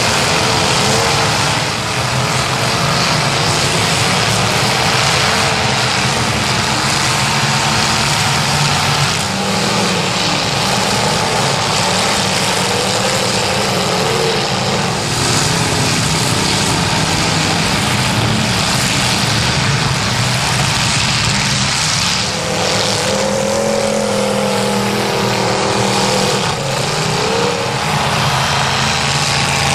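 Several demolition derby car engines revving together on a dirt track, their pitch rising and falling as the pack drives. The sound is loud and continuous.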